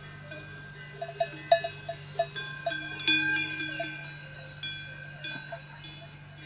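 Metal bells, like those on grazing livestock, clinking irregularly, each strike ringing on at several pitches, loudest about a second and a half in and again around three seconds in, over a steady low hum.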